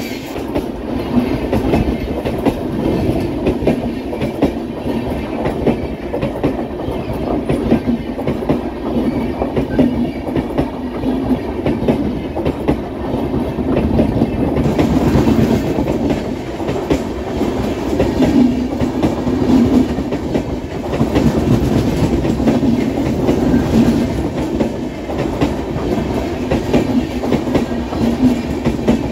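Passenger coaches of the 12472 Swaraj Express running past close by at speed: a steady rumble of wheels on rail with repeated clickety-clack as the bogies cross rail joints.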